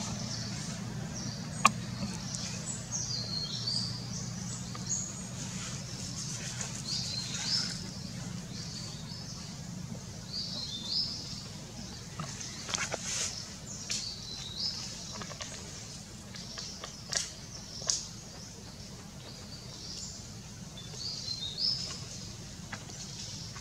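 Small birds chirping in short, high bursts on and off over a steady low hum. A sharp click comes about two seconds in, and softer clicks follow later on.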